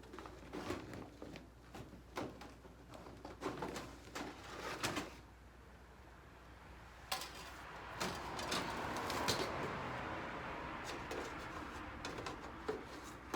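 Metal clinks and knocks as a folding stainless-steel Logos Pyramid Grill fire stand is handled and set up, then a longer sliding, scraping noise of the metal parts being fitted together, with a few more clicks near the end.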